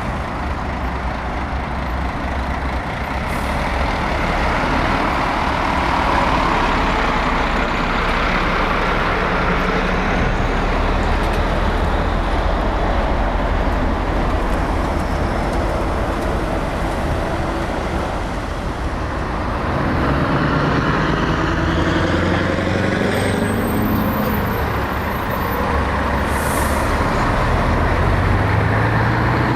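Heavy diesel trucks running close by, loud and steady. From about two-thirds of the way through, one engine's pitch climbs as it pulls away and accelerates, and a short hiss comes near the end.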